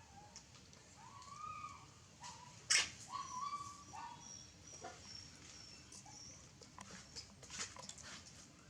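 Baby monkey giving short whimpering calls, several brief arching cries in the first few seconds, with a sharp click near the three-second mark.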